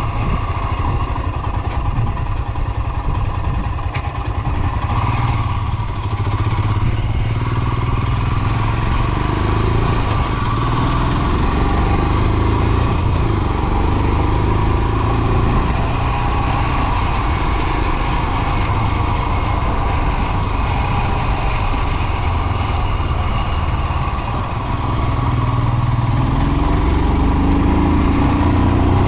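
Royal Enfield Himalayan's 411 cc single-cylinder engine running under way, its note climbing twice as the bike accelerates: once around ten seconds in and again near the end, with a steady rush of wind and road noise underneath.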